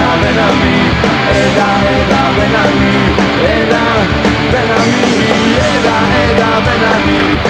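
Punk rock band playing live, loud and steady: an instrumental stretch with no singing.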